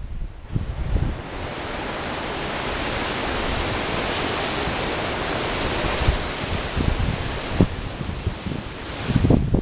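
A strong gust of wind rushing, swelling over a couple of seconds into a loud hiss and dying away again near the end, with low buffeting of wind on the microphone at the start and end.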